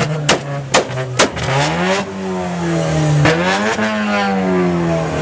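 Car engine held at high revs, with three sharp bangs in the first second and a half, then the revs dropping and climbing again twice.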